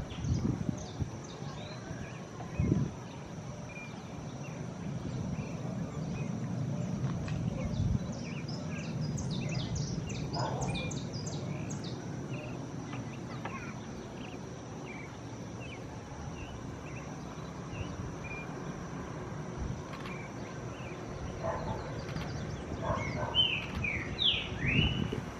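Birds chirping in short, scattered calls over a steady low background rumble and a thin, steady high-pitched whine, with a couple of sharp knocks near the start.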